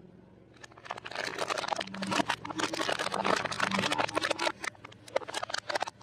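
Crispy fried food crunching and crackling in a dense run of small cracks, thinning to scattered cracks in the last second or so.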